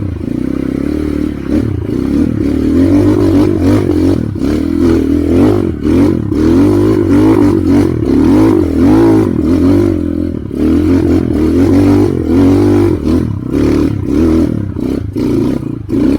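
Trail motorcycle engine revving hard and unevenly, its pitch rising and falling over and over as the throttle is worked.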